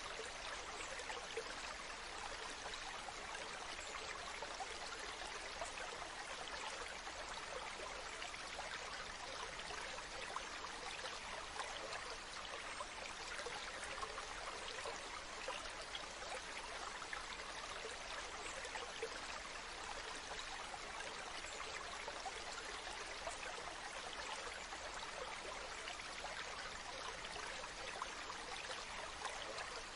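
Waterfall: a steady, even rush of falling water with no change or break.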